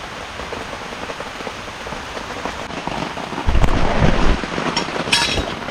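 Heavy rain falling steadily, with a loud low rumble about three and a half seconds in.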